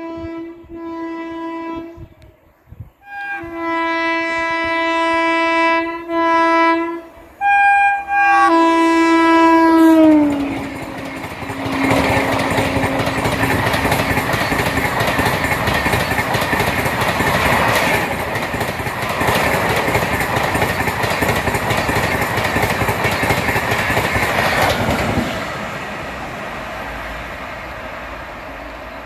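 Express train's electric locomotive sounding its horn in several blasts as it approaches. The last blast slides down in pitch as the locomotive passes. The coaches then rush past at high speed with loud rolling wheel noise, which falls away about four seconds before the end.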